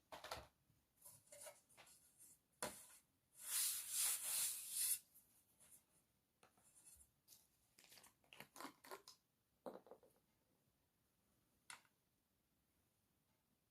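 Handling and cleaning a loose pane of picture-frame glass: a couple of knocks as it is picked up and set down, a loud rustling burst about three to five seconds in, then short rubbing and wiping strokes.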